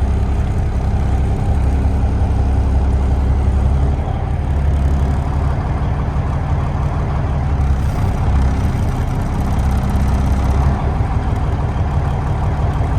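Peterbilt 372's diesel engine idling steadily just after a cold start, having sat unused for about a year.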